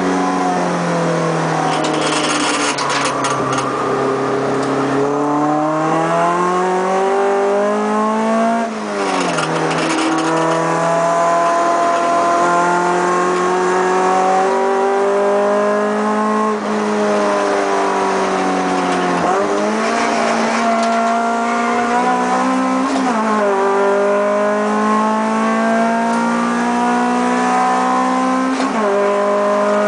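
Honda Integra DC2's four-cylinder engine, heard from inside the cabin under hard track driving. The engine note climbs steadily for several seconds at a time and drops sharply at each lift or gear change, about five times.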